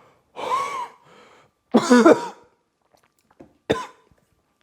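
A man coughing and clearing his throat twice, a reaction to the burn of a mouthful of hot sauce. The second cough is louder and partly voiced, and a single short click comes near the end.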